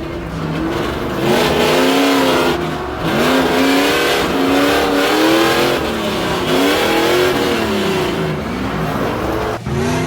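Swapped GM LS V8 engine in an Audi B8 S4 drift car revving hard, its pitch rising and falling several times in a row.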